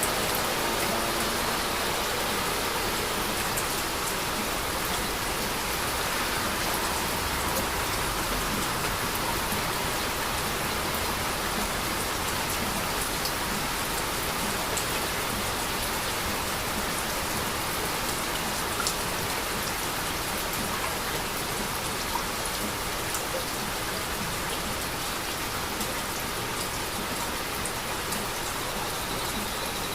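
Steady heavy rain falling: an even hiss with scattered sharp drop ticks.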